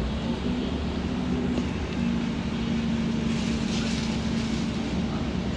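Cabin noise of a moving village bus: a steady low rumble of engine and road, with a steady low hum.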